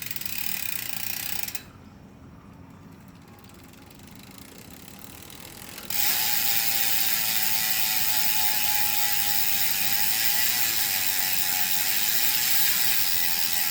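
PASAK 29-inch wheelset's freehub ratcheting as the wheel freewheels, its pawls clicking so fast they blur into a buzz. It is softer at first and turns loud and steady about six seconds in.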